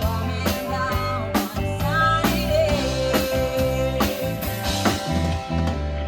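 Small rock band playing: a drum kit keeps a steady beat under bass, and a melodic line is held and bent over them.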